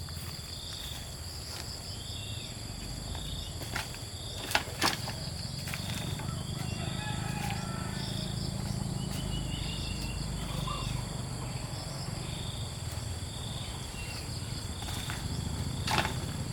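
Insects droning steadily in high tones, with a low rumble underneath and a few sharp knocks: two about four and a half seconds in and one near the end.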